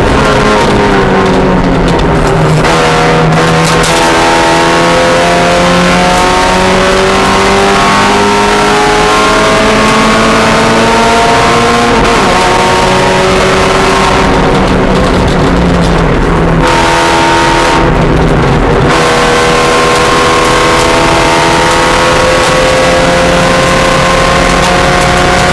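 Spec Miata race car's four-cylinder engine running hard at high revs on track, its pitch climbing slowly with a few sudden drops in revs as it shifts and lifts.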